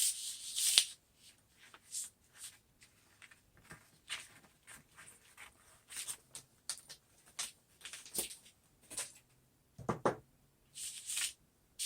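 Hand sanding: short, uneven rubbing and scratching strokes at irregular intervals, with a longer stretch of rubbing at the start and again near the end, taking excess material off a metal sign's surface so the paint has less to stick to.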